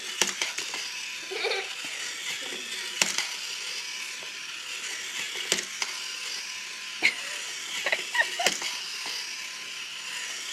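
Battery-powered toy train's small motor whirring steadily, with scattered clicks and knocks at irregular intervals.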